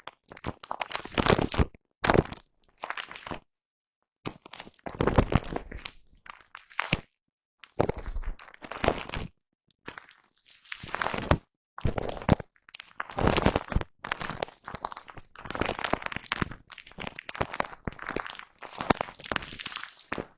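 Foam brush rubbed against a microphone close up, in many short, uneven brushing strokes. Each stroke lasts up to about a second and a half, with brief dead-silent gaps between them.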